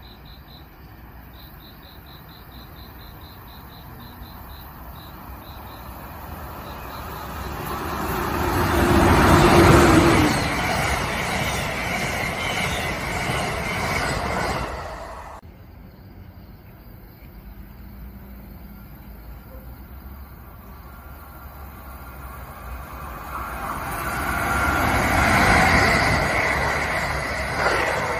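Amtrak train of stainless Amfleet coaches passing at speed, its rumble and wheel noise building to a peak about ten seconds in and cutting off suddenly halfway through. Then an Amtrak Avelia Liberty high-speed trainset approaches and passes at speed, loudest near the end.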